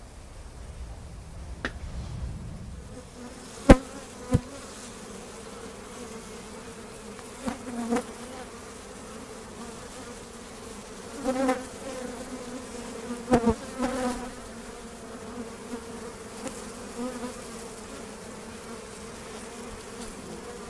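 Honey bees buzzing in a steady hum, flushed out of their soffit hive by pyrethrum and desiccant dust and growing agitated. The buzz swells louder at times as bees fly close, and a few sharp taps cut through, the loudest about 4 and 13 seconds in.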